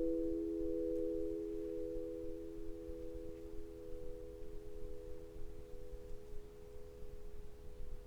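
Singing bowl ringing on after being struck, several steady low tones with a slow wavering pulse in the upper one, fading gradually.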